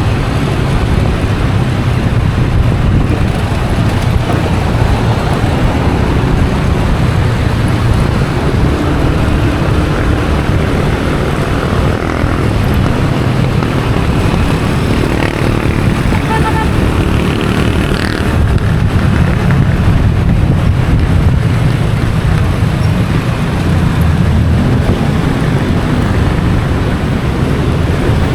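Motorcycle taxi riding through city traffic, heard from on board: its engine running and road noise, loud and steady, with other traffic around.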